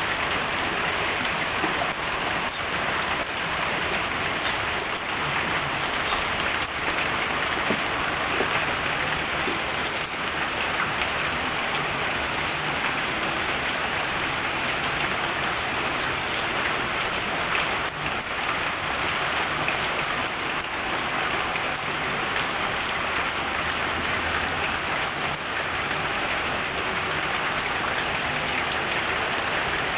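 Steady rain falling and pattering on hard surfaces, an even hiss with scattered drop ticks.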